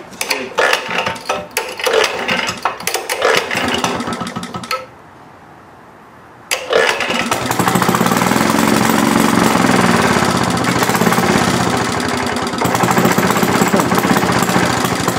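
Maytag twin-cylinder gas engine being kick-started: a few seconds of irregular clattering kicks, a short lull, then it catches about six and a half seconds in and keeps running steadily, sounding pretty quiet through its new muffler.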